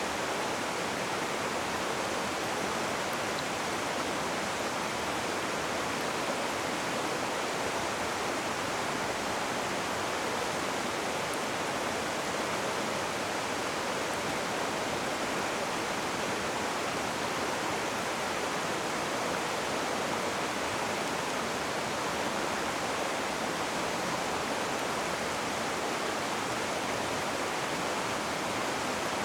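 Rushing river water: a dense, steady roar of flowing water with no breaks or changes.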